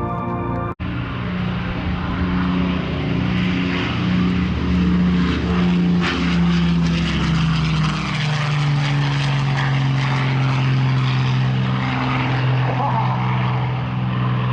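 Piston warbird's Rolls-Royce Merlin V12 engines running as it flies past, a steady propeller drone whose pitch drops about eight seconds in as the aircraft passes.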